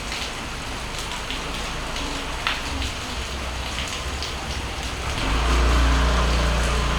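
Steady rain falling on surfaces, with scattered sharp drip ticks. About five seconds in, a passing vehicle's engine rises out of the rain as a low rumble and stays loud to the end.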